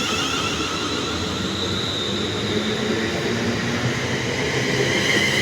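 Class 350 Desiro electric multiple unit pulling out of the station, its traction motors whining high over the rumble of the wheels on the rails.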